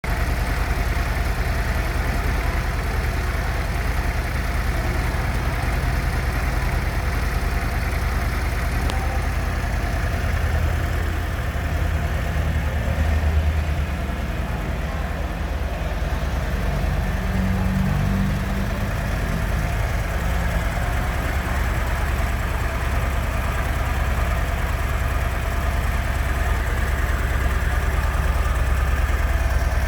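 Harley-Davidson Street Glide's V-twin engine idling steadily with a low, even lope.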